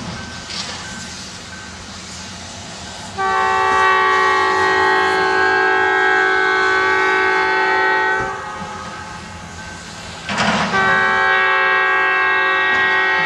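Diesel locomotive air horn sounding a chord of several tones in two long blasts: the first starts about three seconds in and lasts about five seconds, and the second starts near the end and is still sounding when the clip ends.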